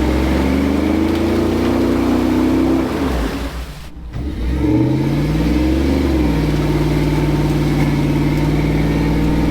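A vehicle engine revving up and held at high revs under load. It eases off about three seconds in, then revs up and holds again a second or so later.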